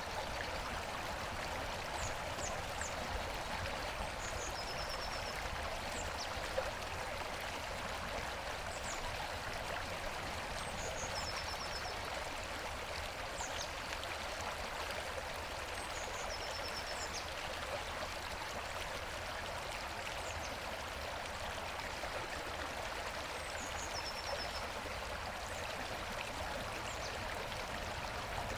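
Mountain river water rushing steadily over rocks, a constant even rush. Short high chirping phrases come through it every few seconds.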